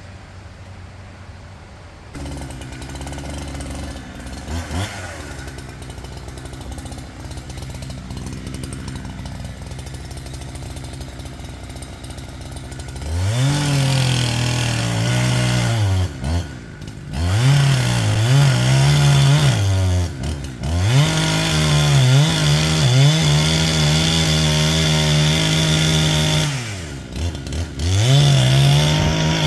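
Gas chainsaw running at low speed, then from about halfway throttled up to full speed in several long runs, its pitch dropping briefly between them.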